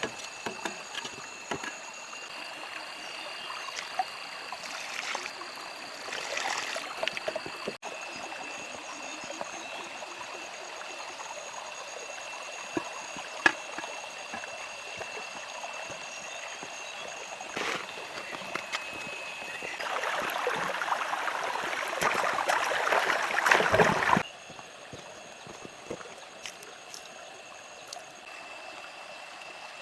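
Steady rush of flowing water, with scattered clicks and knocks. A louder rushing noise runs from about two-thirds of the way in and cuts off suddenly.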